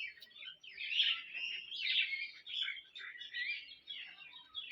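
Several small birds chirping and twittering in a busy, overlapping chorus of short high calls.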